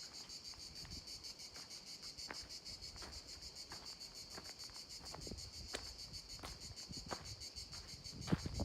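A steady, high, finely pulsing chorus of insects chirring, with scattered light ticks and knocks and a few louder knocks near the end.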